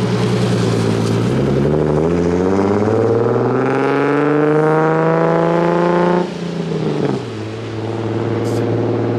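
Nissan 350Z's V6 engine revving hard as the car spins its tyres on wet pavement and pulls away. The note holds high, then climbs for about four seconds, cuts off abruptly and settles to a lower steady tone.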